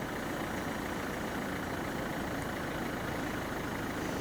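Car running, a steady low engine and road hum heard from inside the cabin.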